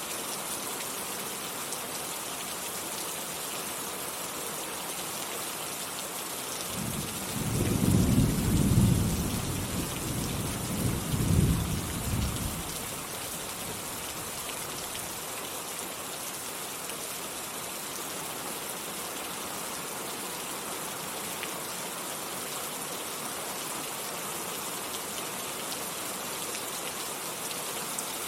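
Steady rain hissing. A low roll of thunder comes in about a quarter of the way through, swells twice over about six seconds, then fades back under the rain.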